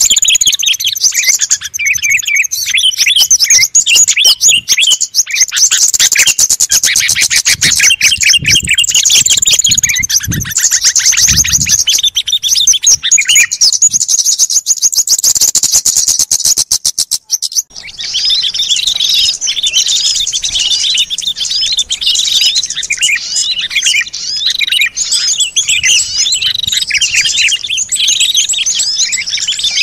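Many small birds chirping and twittering at once in a dense, rapid chorus, the kind of mixed-call recording played to lure wild birds in. The chorus breaks off briefly about seventeen seconds in, then resumes.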